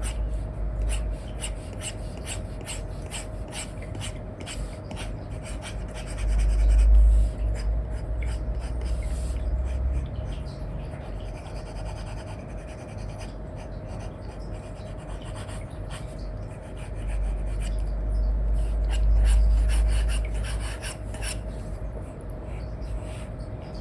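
Apple Pencil tip with an Elecom nib scratching and rubbing in quick strokes across a paper-like matte screen film on an iPad. A low rumble swells twice, over a faint steady hum.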